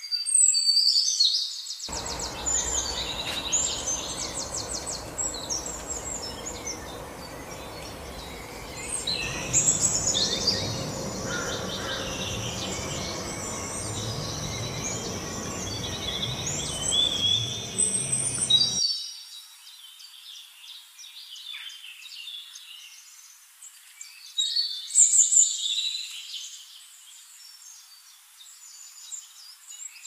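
Birds chirping and calling in high, rapid trills that come in several bursts. A low, even background noise cuts in about two seconds in and stops sharply a little past the middle.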